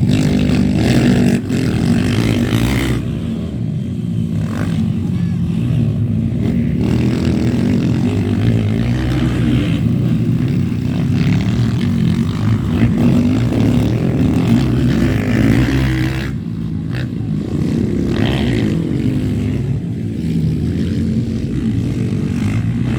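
Motocross motorcycle engines running and revving, rising and falling in pitch.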